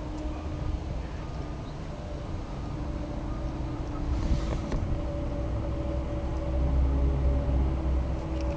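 Mazdaspeed3's turbocharged 2.3-litre four-cylinder engine running with a steady low rumble that swells for a moment about seven seconds in.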